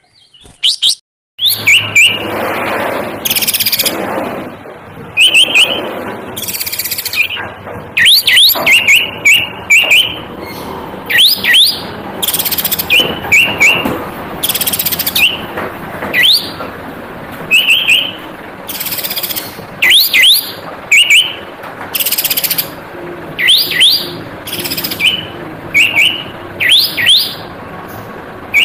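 A bird calling close by: quick chirps, often in twos or threes, mixed with harsh noisy notes, about one every second.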